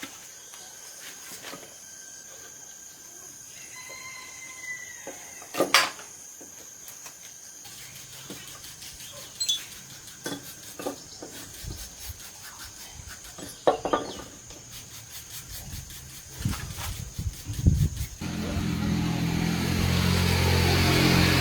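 Scattered knocks and clicks of work on metal parts over a faint steady high whine, then about three-quarters of the way through a motor starts up and runs with a steady low hum.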